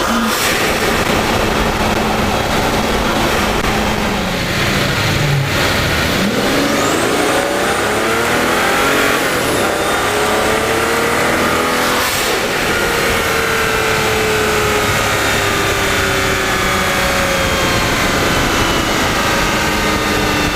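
Mercedes-Benz CL600's twin-turbo M275 V12 driving: the revs dip, then climb steadily from about six seconds in, with a faint high whistle rising alongside. The engine then settles and the pitch slowly falls as the car cruises.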